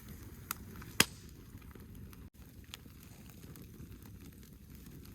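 Campfire crackling, with a few sharp pops over a steady hiss; the loudest pop comes about a second in.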